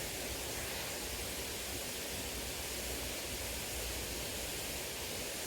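Steady rushing of a small river's flowing water, an even hiss with no change.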